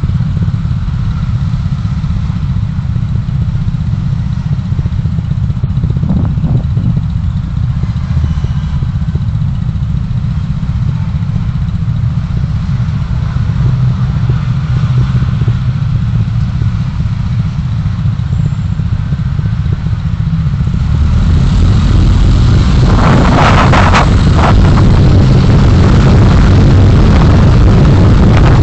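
Dashcam recording of a moving vehicle: a steady low rumble of engine and road noise. It grows louder and rougher about 21 seconds in, with a couple of brief noisy swells shortly after.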